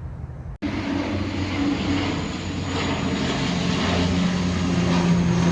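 An airplane flying overhead: a steady engine drone with a low hum that grows slowly louder, after a brief break about half a second in.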